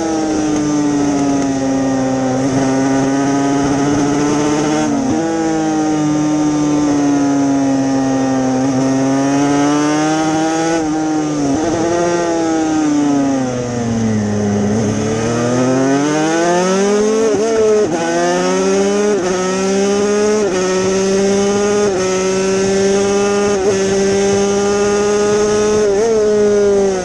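Yamaha TZ250 two-stroke racing motorcycle engine running hard at high revs. Its note glides up and down and jumps sharply with each gear change. About halfway through the pitch sinks low, then climbs back through a run of quick upshifts.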